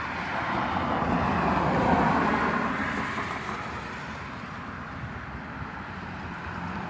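Traffic noise: a road vehicle passing, its rushing sound swelling to a peak about two seconds in and then fading away.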